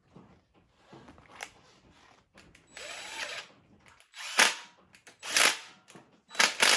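Handheld power tool run in three short, loud bursts about a second apart, after a softer hiss.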